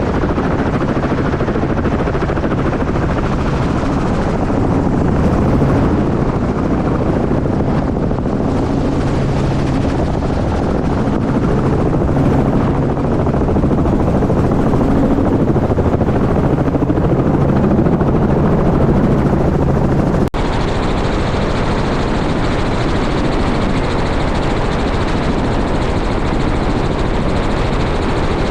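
Helicopter running steadily, its rotor and engine making a continuous drone. About twenty seconds in, the sound drops out for an instant and resumes with a slightly different tone.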